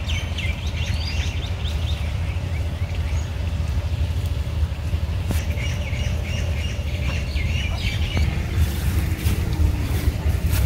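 Small birds chirping and twittering in short bursts, over a steady low rumble.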